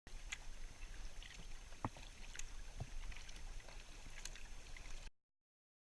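Kayak paddling on the water: paddle blades dipping and dripping, with scattered splashes and ticks over a steady low rumble. It cuts off abruptly about five seconds in.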